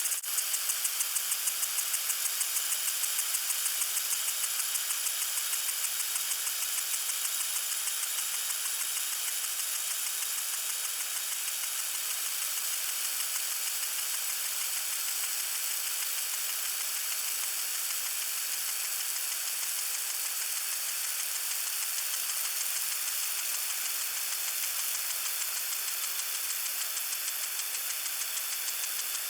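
Lawn sprinkler spraying water: a steady hiss with a rapid, regular ticking running through it.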